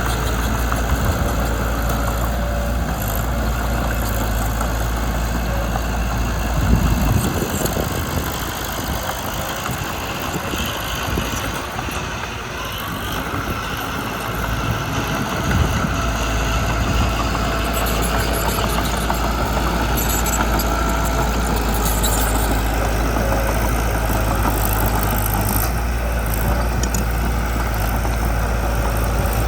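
Mitsubishi BD2 bulldozer's diesel engine running steadily, with a low drone that thins out for several seconds in the middle and then returns.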